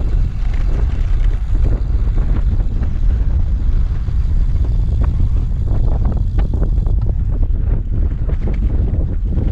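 Wind buffeting the microphone of a camera riding along on a moving road bicycle: loud, low, gusty noise.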